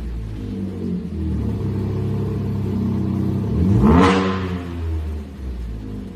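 Chevrolet Colorado's 3.6-litre V6 idling through a custom variable-valve exhaust, then a single quick throttle blip about four seconds in that rises sharply and drops back to idle.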